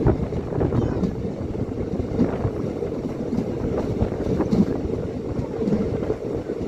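Steady low rumble of a halted passenger train's surroundings, with faint indistinct voices now and then.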